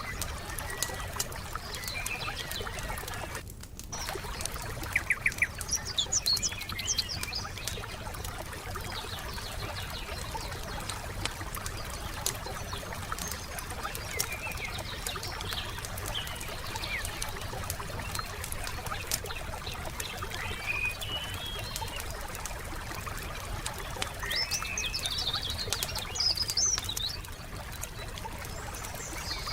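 Wood fire crackling with many small pops, while songbirds chirp and call. There is a cluster of louder pops about five seconds in.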